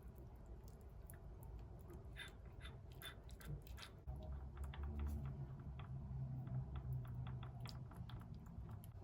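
Light kitchen handling sounds: scattered small clicks and taps of utensils and dishes, with a low hum coming in about four seconds in.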